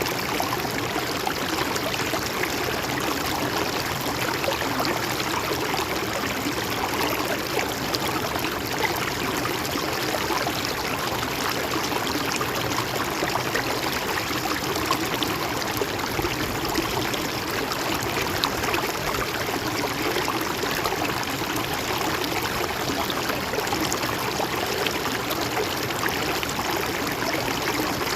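Mountain stream running steadily over rocks, a continuous even rush of water with some trickling.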